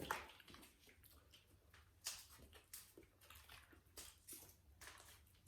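Faint eating sounds: a person chewing seafood-boil food, with a handful of soft, short clicks and smacks in the second half.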